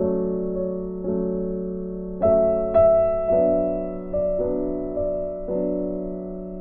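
Background music: a soft piano or electric-piano piece, with chords struck about once a second and left to ring and fade.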